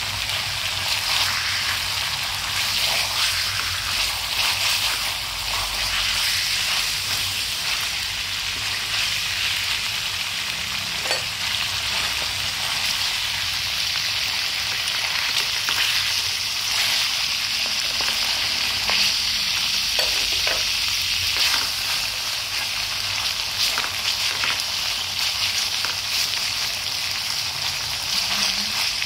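Pork cutlets coated in minced lemongrass sizzling steadily as they fry in oil in a steel wok, with scattered crackling pops and the occasional scrape of chopsticks turning the pieces.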